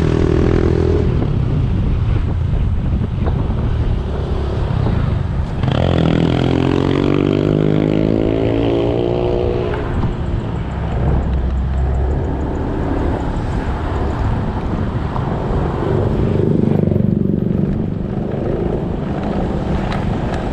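Motorbike riding along a road: engine running under heavy wind and road noise. About a quarter of the way through, an engine climbs in pitch as it speeds up, then holds for a few seconds.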